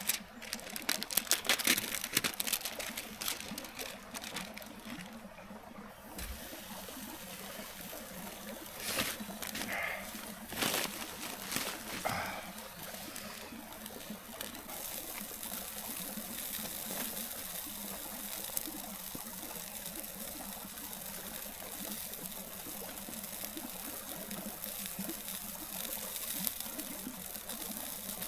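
Small stream trickling steadily. A quick run of clicks and knocks sounds in the first few seconds, and a few more about ten seconds in.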